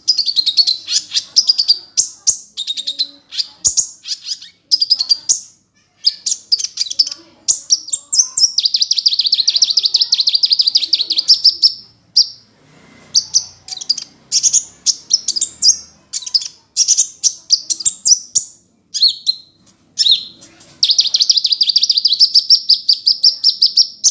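Sunbird song: quick runs of sharp, high chirps and whistled notes, broken twice by long, fast rattling trills.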